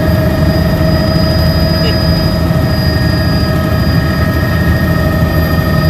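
Helicopter running steadily, a loud low rotor throb under a constant high-pitched whine.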